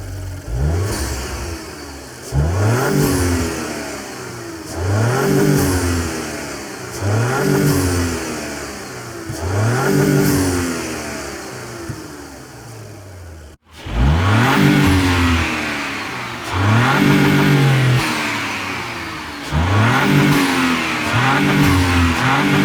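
Car engine being revved in quick repeated blips, about one every two seconds: each blip climbs sharply in pitch and then falls back toward idle. There is a brief cut a little past halfway, then the blips resume.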